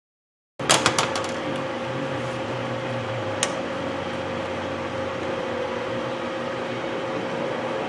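Steady mechanical hum with one constant mid-pitched tone, like a fan or air conditioner running in a small room. It cuts in abruptly just over half a second in, with a few sharp clicks of tools being handled on the bench, and one more click about three and a half seconds in.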